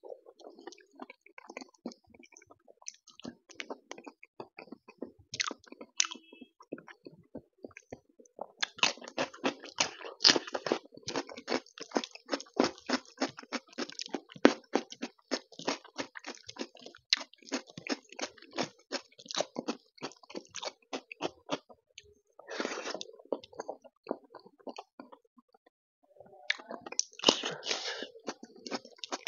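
Close-miked wet chewing and lip smacks of a person eating rice and taro root curry by hand. The chewing is scattered at first, then comes in quick, steady smacks for about fourteen seconds. There are two short louder noisy bursts near the end.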